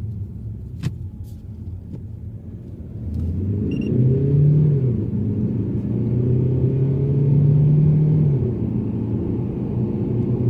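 Mazda3 being driven, its engine note over low road rumble. The engine swells about three seconds in, holds steady for several seconds, and eases off near the end. A single sharp click about a second in.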